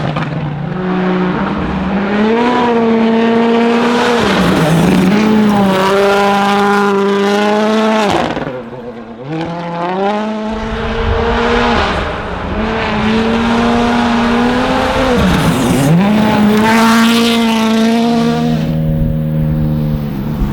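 Ford Fiesta WRC's 1.6-litre turbocharged four-cylinder rally engine running hard at high revs. Its pitch drops sharply and climbs back several times as the car changes speed.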